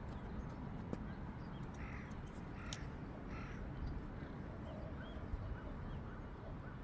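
A bird calling outdoors: three short calls in quick succession about two to three and a half seconds in, over a steady low background hum.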